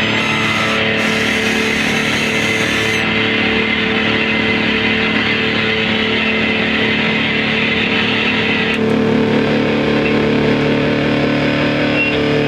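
Live noise music: a loud, unbroken wall of distorted guitar-like noise over steady droning tones. The highest hiss drops away about three seconds in, and the upper treble cuts off again near nine seconds.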